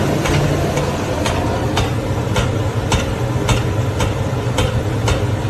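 A steady low mechanical hum with a sharp click repeating evenly, a little under twice a second.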